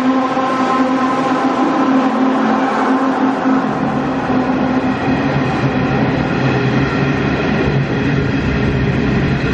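Diesel locomotives hauling an empty coal train, their engines running steadily over the rumble of the train, with the engine note dropping lower about three and a half seconds in.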